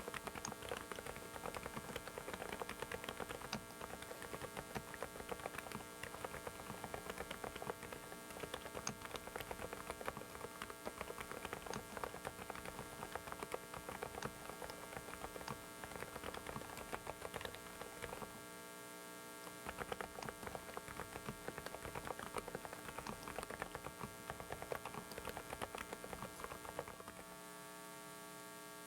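Typing on a Dareu mechanical keyboard: rapid, irregular key clicks from its switches, stopping briefly about two-thirds through and again near the end. A steady electrical hum from a faulty microphone runs underneath.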